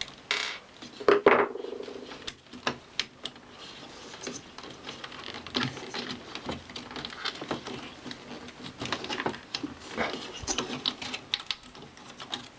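Irregular clicks, taps and short scrapes of hands and a tool working on a VHS recorder's plastic parts and mechanism, with a brief louder rustle about a second in.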